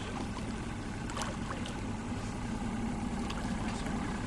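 Boat motor running steadily at low speed with an even low hum, a few faint ticks over it.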